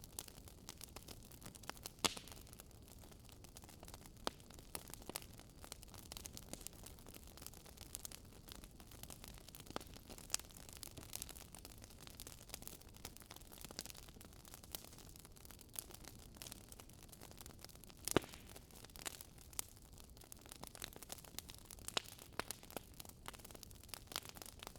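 Wood fire crackling, with irregular sharp pops and snaps over a low hiss; two louder pops, about two seconds in and near the eighteenth second.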